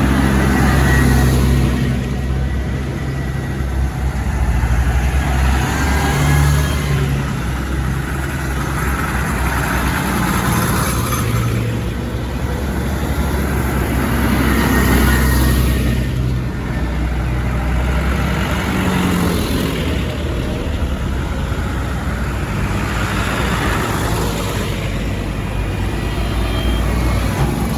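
Modern farm tractors driving past one after another. Their engines keep up a low drone, and the sound swells as each one goes by, about every four to five seconds.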